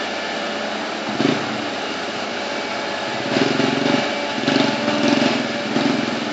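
Bulldozer's diesel engine running steadily, with several brief louder surges in the second half.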